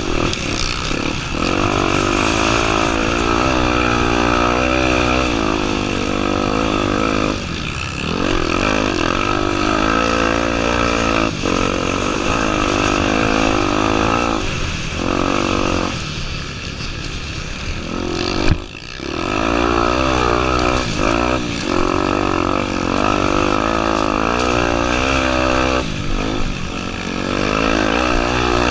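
Honda Tornado 250's single-cylinder four-stroke engine running hard off-road, its pitch rising and falling with the throttle and dropping briefly several times as the throttle is closed.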